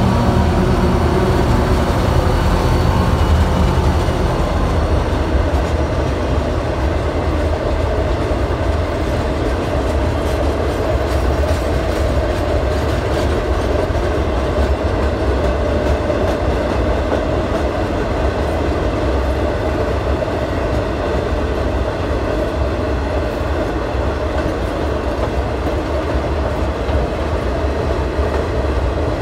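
Freight train rolling past with a steady, loud rumble. A humming tone fades away over the first few seconds.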